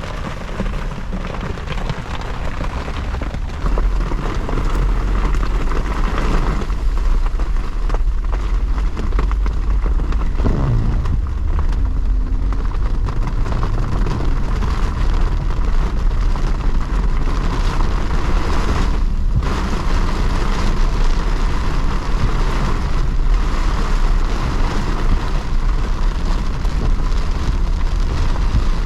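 A car driving through rain, heard from inside the cabin: a steady deep rumble of road and engine noise with rain on the car, growing louder about three and a half seconds in.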